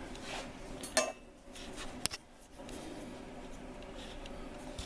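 Light metal clinks from an engine valve being pulled out of a Dodge 4.7 cylinder head after lapping: one clink about a second in and a sharp click about two seconds in.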